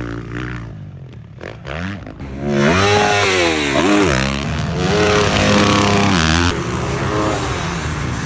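Yamaha dirt bike engine revving, its pitch rising and falling several times as the throttle is worked. It is quieter and lower at first, then runs loud and high for several seconds in the middle before easing off near the end.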